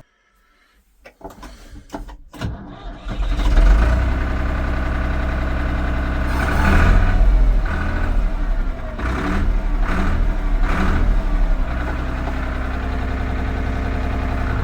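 Ford 3930 tractor's three-cylinder diesel engine cranked and started, catching about three and a half seconds in. It is revved up a few times, then settles to a steady idle.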